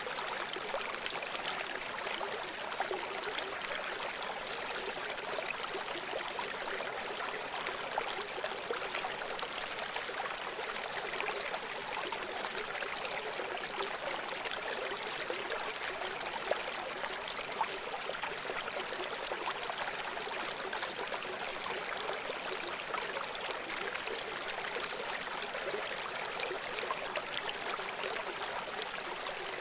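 Running stream, water flowing and trickling steadily, a continuous even rush.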